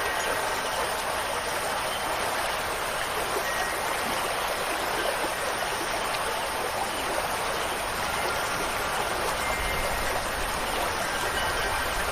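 Steady rush of running water, like a stream or heavy rain. A few faint, high wind-chime notes ring now and then over it.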